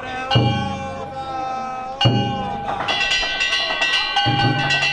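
Danjiri festival percussion: hand-held kane gongs struck over and over and left ringing, with a deep drum beat a third of a second in, at about two seconds, and again near the end.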